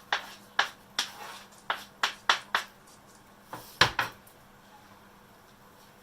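Kitchen utensils and cookware knocking and clacking: about ten sharp, irregular knocks over the first four seconds, the loudest a little under four seconds in.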